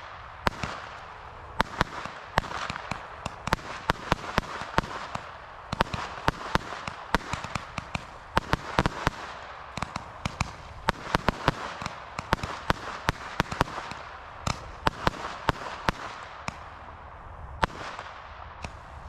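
Deadhead extra large Roman candles firing together from a stand: an irregular, fast string of sharp bangs over a continuous hiss of burning tails.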